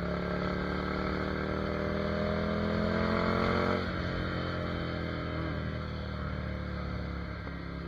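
Ducati Monster 797's air-cooled L-twin engine under way, rising in pitch as it accelerates for about four seconds, then dropping sharply as it shifts up, and holding steady before easing off near the end.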